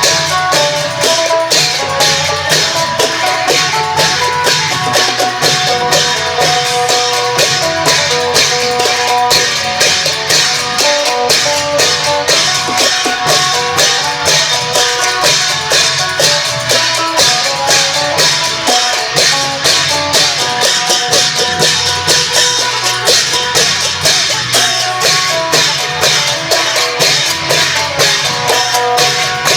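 Isan klong yao long-drum band playing a procession piece: a steady beat of long drums and cymbals under a plucked phin lute melody.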